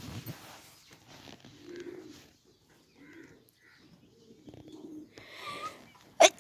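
Birds in a poultry pen giving low, soft cooing calls every second or so, amid rustling. A sudden loud, sharp sound comes near the end.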